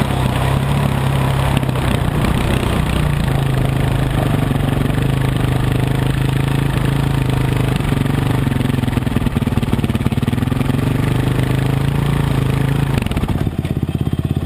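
Dirt bike engine running at a steady speed, dropping to an idle of evenly spaced pulses about thirteen seconds in.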